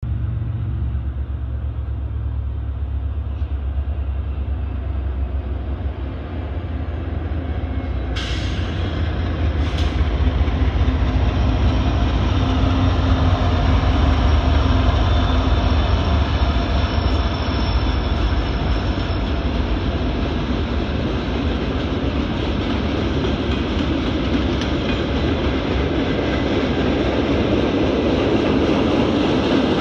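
Norfolk Southern diesel freight train rolling past at speed: a deep engine rumble, heaviest in the first dozen seconds, gives way to the steady rolling noise of freight cars on the rails. Two sharp knocks come about eight and ten seconds in.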